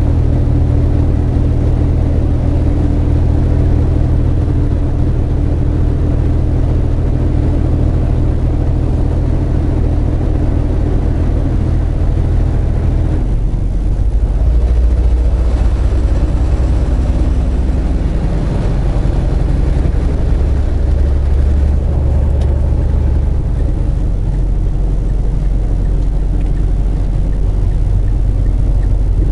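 Semi truck's diesel engine droning steadily under way, heard inside the cab. About 13 seconds in, the engine note drops and changes.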